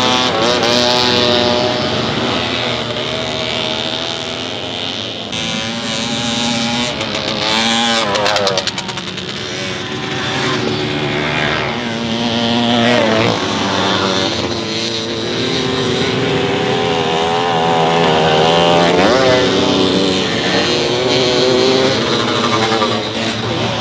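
Several vintage motorcycle engines racing, revving up and dropping back again and again as bikes pass and take bends, their notes overlapping. A short run of sharp crackles comes about a third of the way in.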